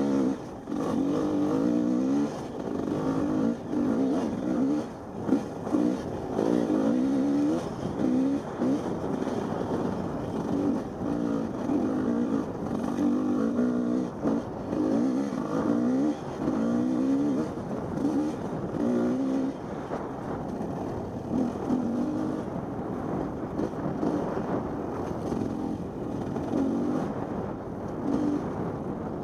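Husqvarna 250 two-stroke dirt bike engine revving up and down again and again, throttle opened and shut in quick bursts with short dips between, as the bike is ridden over rough single track.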